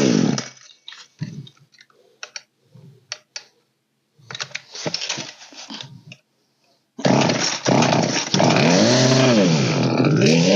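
Poulan 3616 chainsaw's two-stroke engine revving and then dying about half a second in, followed by several seconds of clicks and rattles; about seven seconds in it fires up again and runs, revving up and back down twice. The saw is mid carburetor adjustment and not yet holding a steady idle.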